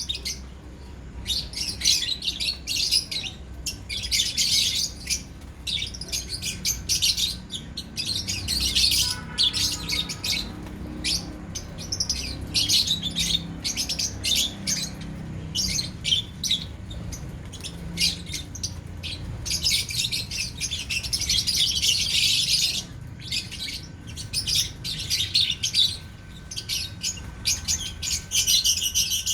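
Lovebirds chattering, with dense runs of rapid high-pitched chirps that keep going almost without a break.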